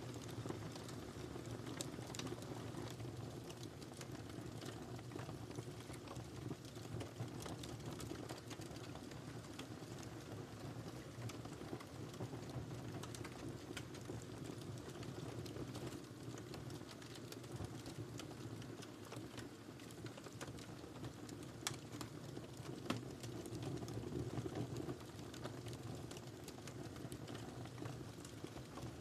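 Wood fire crackling in a fireplace: irregular sharp pops and snaps over a steady low rumble of the flames, with two louder pops a little after twenty seconds in.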